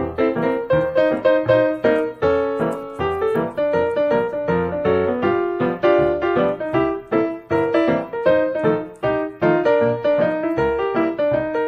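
Background piano music: a steady run of notes played one after another.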